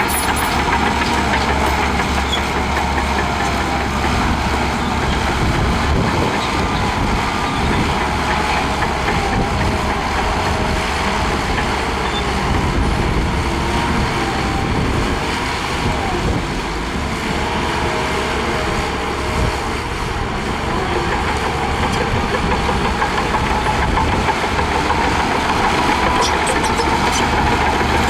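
Heavy diesel earthmoving machinery running steadily: a continuous engine drone with a wavering higher whine over it.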